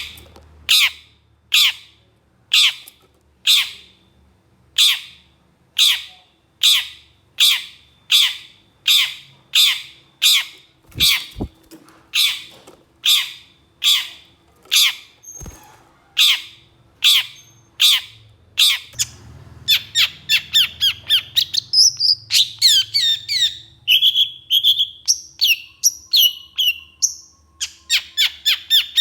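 Long-tailed shrike (cendet) giving harsh, rasping calls repeated at a little over one a second. About two-thirds of the way in these give way to a faster, varied chattering song with quick gliding notes.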